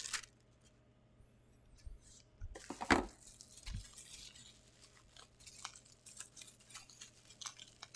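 Figurine packaging being handled and opened: small clicks and crackles of plastic and cardboard, with one louder crinkling rip about three seconds in.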